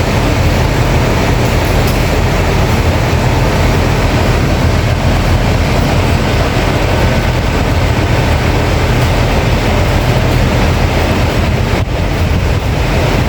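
Heavy rain pouring down in a dense, steady hiss, over a continuous low rumble.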